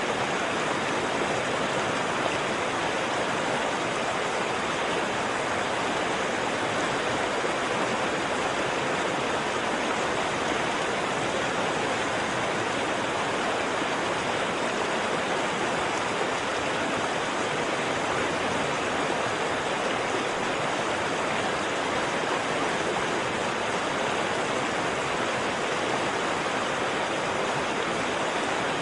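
Waterfall: water falling and rushing in a steady, unbroken roar of white water.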